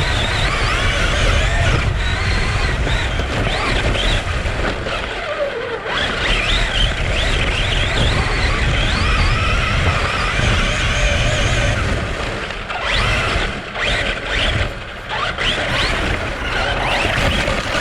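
Electric motor of a hobby-grade RC car whining, its pitch rising and falling with throttle as it is driven. Heavy wind rumble on the microphone runs underneath.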